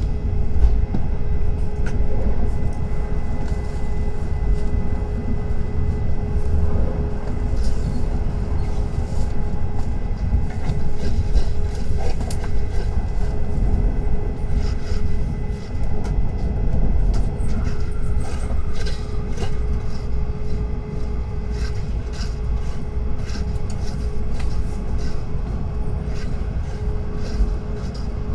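Tokaido Shinkansen train running: a steady low rumble with a constant hum and scattered light ticks.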